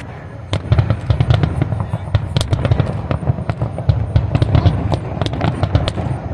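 Fireworks going off in a fast, dense string of sharp cracks and pops. It starts about half a second in, over a steady low rumble.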